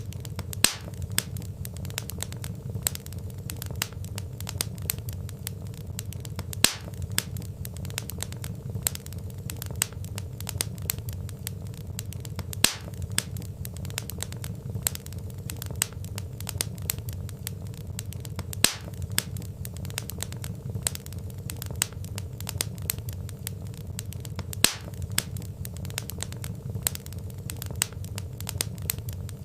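Wood fire crackling: dense small snaps of burning logs over a low steady rumble of flame, with a louder sharp pop about every six seconds.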